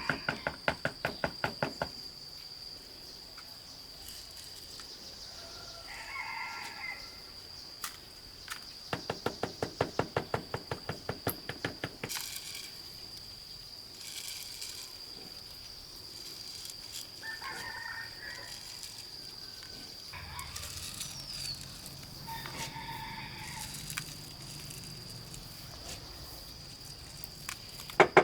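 A rooster crowing several times over a steady high insect drone, with two runs of rapid, even knocking strokes, about seven a second: one at the start and one about ten seconds in.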